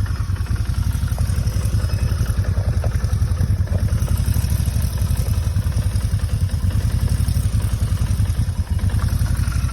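Vehicle engine idling with a steady, rapid low pulsing, still making the unexplained noise the owner has been hearing.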